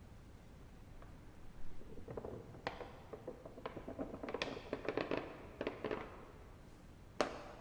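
Wood-burning fireplace crackling: a flurry of pops and snaps for a few seconds, then a single sharp snap near the end.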